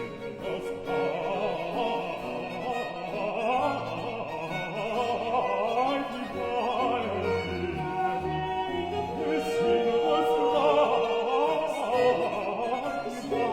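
Baroque vocal duet of soprano and bass singing with vibrato over a bowed-string accompaniment.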